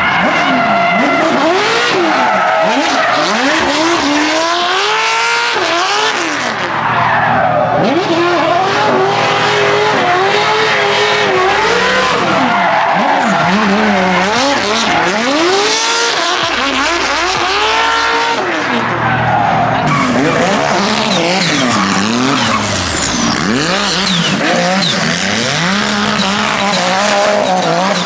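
Drift cars sliding at full throttle: engines revving up and down again and again, with tyres squealing and smoking against the pavement.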